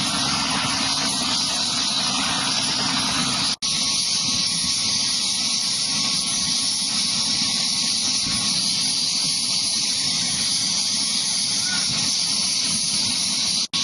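Helicopter running on the ground, a loud, steady rushing engine and rotor noise with a thin high whine. The sound breaks off for an instant about three and a half seconds in and again near the end.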